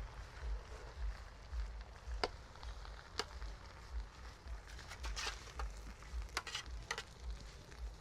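Stirring in a cooking pot: a handful of sharp clicks and scrapes of a utensil against the pot, over a low, uneven rumble.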